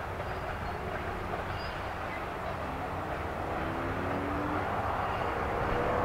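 Covered grain hopper cars of a freight train rolling past: a steady rumble of wheels on rail with faint thin squealing tones, getting louder toward the end.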